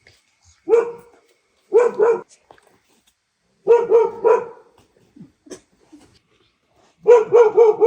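A dog barking in short groups: a single bark, a pair, a run of three, then a quick string of barks near the end.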